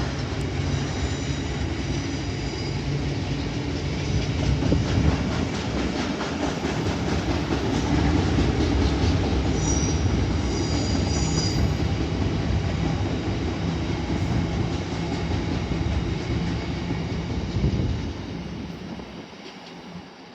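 Freight oil train's tank wagons rolling past with a continuous rumble of wheels on rail and brief high-pitched wheel squeals twice. The sound dies away near the end as the tail of the train passes.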